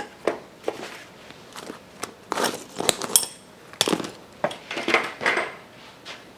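Metal parts and tools being handled and set down on a workbench: an irregular run of clinks and knocks, one of them ringing briefly about three seconds in.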